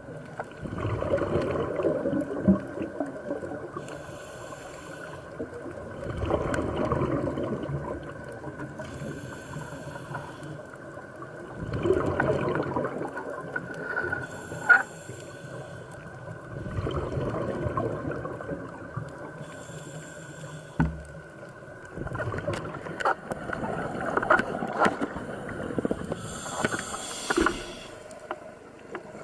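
Scuba diver breathing through a regulator underwater: a gurgling rush of exhaled bubbles about every five seconds, with a fainter hiss of inhaling between, and a few sharp clicks.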